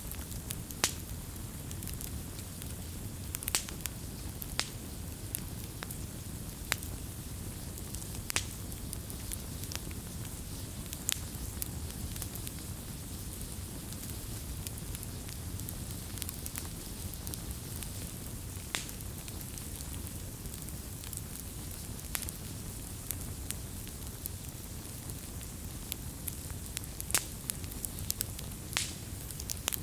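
Wood campfire burning: a steady low rumble and hiss of the flames with irregular sharp crackles and pops of the burning wood.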